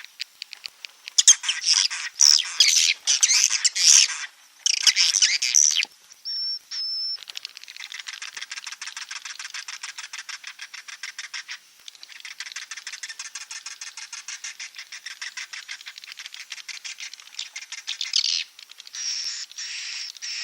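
Swiftlet call recording, the lure sound played to draw edible-nest swiftlets into a bird house: loud high chattering bursts for about six seconds, a brief high whistle, then a long stretch of fast, rhythmic twittering clicks, with a short louder burst near the end.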